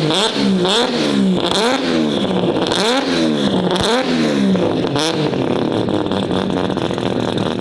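Car engine revved hard again and again, its pitch climbing and dropping in quick repeated sweeps, with a few short sharp bangs or chirps among them.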